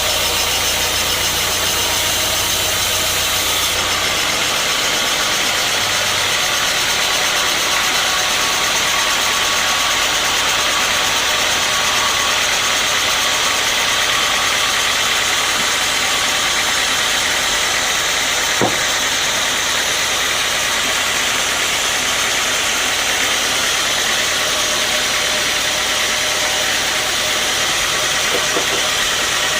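Sawmill machinery running steadily with a dense mechanical noise; a low hum drops away about four seconds in, and a single sharp knock comes about two-thirds of the way through.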